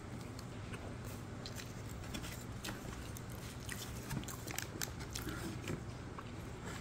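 A person chewing and biting food close to the microphone: irregular small clicks and crunches over a steady low hum.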